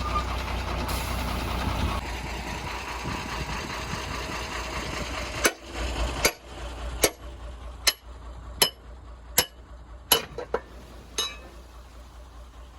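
Heavy diesel engine running low and steady, then a series of about nine sharp metallic knocks, a little under one a second, starting about five seconds in.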